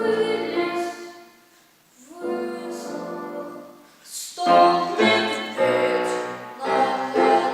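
Piano playing a simple children's piece in short phrases, with brief pauses between the first phrases and fuller, louder playing from about halfway through.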